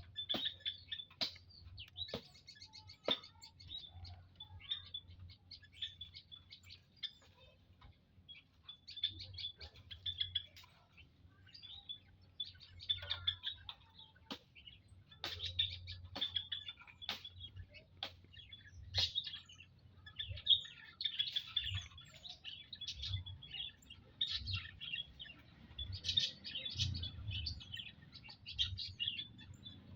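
Small songbirds, prenjak lumut, chirping in quick repeated high notes, with several sharp clicks in the first few seconds.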